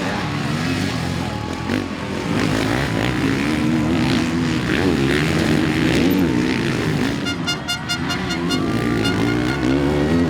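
450cc four-stroke motocross bikes racing, their engines revving up and down in pitch as they are ridden through the gears and around the track.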